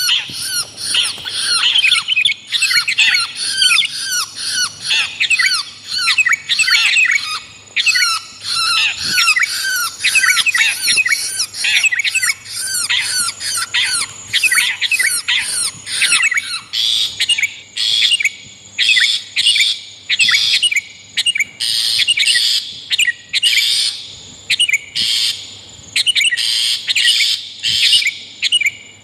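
Long-tailed shrike and sooty-headed bulbul calling: a dense stream of fast, sweeping calls that breaks, about two-thirds of the way through, into separate short calls about once a second.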